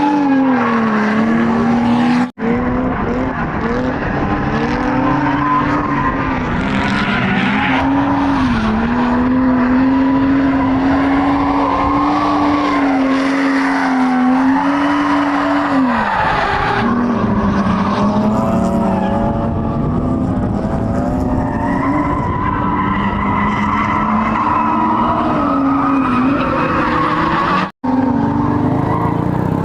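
BMW 135i's turbocharged straight-six engine held at high revs while drifting, its note wavering and dipping as the throttle is worked, over the steady hiss of spinning, sliding tyres. The sound cuts out twice, very briefly, about two seconds in and near the end.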